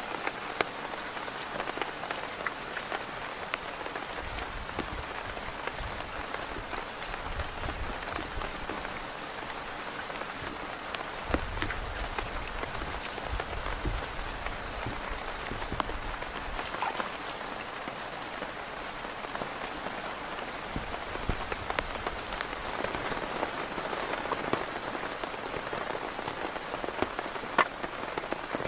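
Heavy rain falling steadily on a tent, with sharp individual drops standing out now and then. A low rumble swells and fades twice in the first half.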